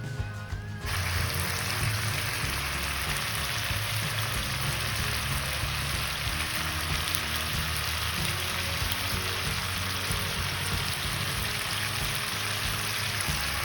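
Marinated chicken pieces frying in hot butter in a pan: a steady sizzling hiss that starts about a second in, over quiet background music.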